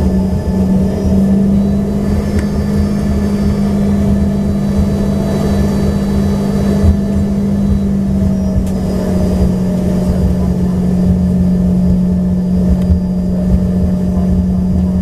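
Cabin sound of an Embraer ERJ-145XR with its rear-mounted Rolls-Royce AE3007 turbofans running at low power on the ground: a steady, loud hum under an uneven low rumble, with faint high engine whine.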